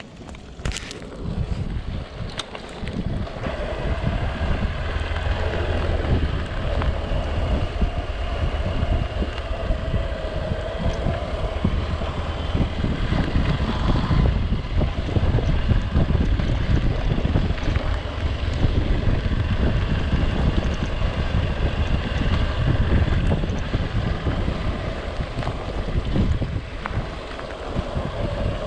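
Wind buffeting the microphone: a heavy, gusty low rumble that builds over the first few seconds.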